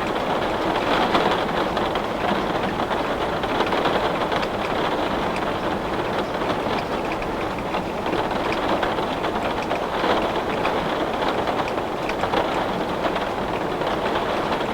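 Heavy rain falling against a window pane: a steady, dense patter with fine scattered ticks of drops on the glass.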